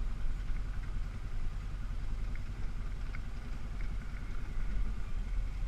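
ATV engine running steadily at low revs, a low even putter with no revving.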